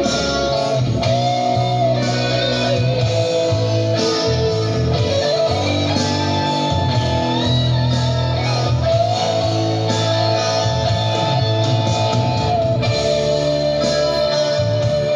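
Instrumental band music with an electric guitar lead playing long held notes that slide and bend in pitch, over a steady bass line.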